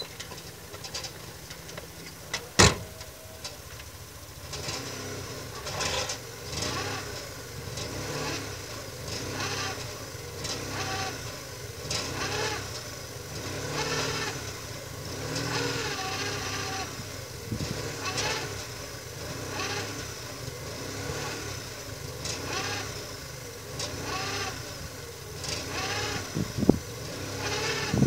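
A VAZ Oka microcar's door slams shut about two and a half seconds in. Then the engine is revved up and down in repeated surges about every two seconds while the car stays put in the snow, the driver trying to get it unstuck.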